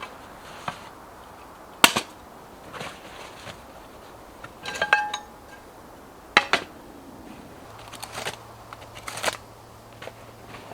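Scattered sharp knocks and clicks of camping gear being handled, with a brief metallic clink about five seconds in.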